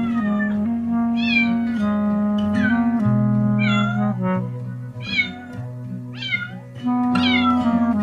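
Background music with held notes and a bass line, over which a cat meows repeatedly, about once a second, each meow falling in pitch.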